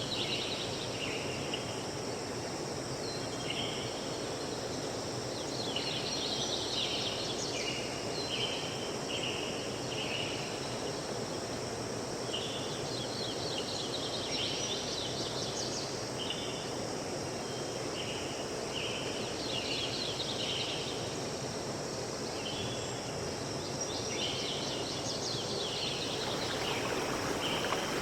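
Forest ambience: repeated short high chirps and quick trills from wildlife over a steady noisy background. Near the end the background turns brighter and hissier.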